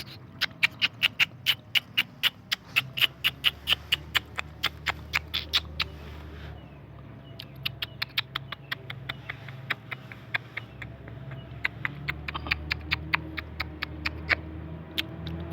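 Puppies squeaking: a rapid string of short, high squeaks, several a second, with a brief lull about six seconds in, over a low steady hum.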